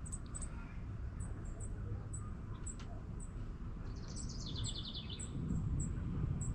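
Birds chirping outdoors: a short, high chirp repeated about twice a second, and a brief falling trill from another bird a little past the middle. Under them runs a steady low rumble that grows louder near the end.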